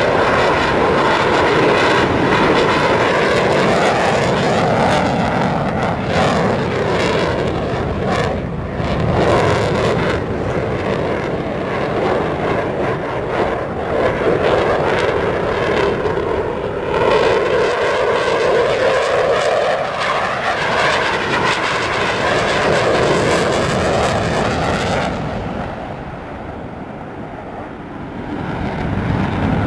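Eurofighter Typhoon's twin Eurojet EJ200 turbofans in a loud, continuous jet roar during a display pass, swelling and fading as the aircraft moves, with sweeping shifts in tone. The roar drops back for a few seconds near the end, then builds again.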